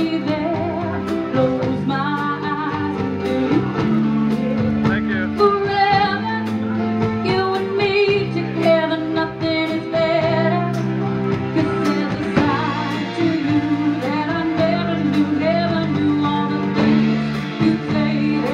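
Live band playing a song: a singer with vibrato over guitar accompaniment and steady held chords.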